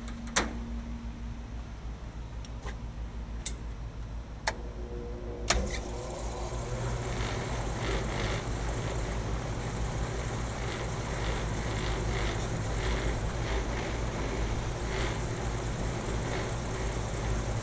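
Rooftop air-conditioning unit over a steady background hum: a few sharp clicks, then about five and a half seconds in a clunk as a motor in the unit starts and runs on with a steady hum.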